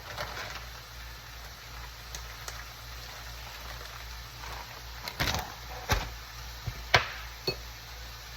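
A few short knocks and clicks of kitchen work, spaced about a second apart in the second half, over a low steady background.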